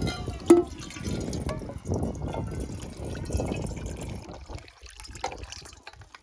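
Liquid being poured into a container, a steady splashing pour with a short sharp knock of metal or crockery about half a second in, dying away near the end.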